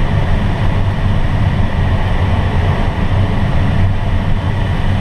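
Steady rush of air streaming past a glider's cockpit in flight, a constant low rumble with no engine.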